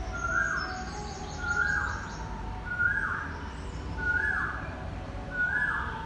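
A bird calling over and over, five short rasping calls about a second and a quarter apart, each a brief note that drops away into a rough buzz. Fainter high chirps sound in the first second or so.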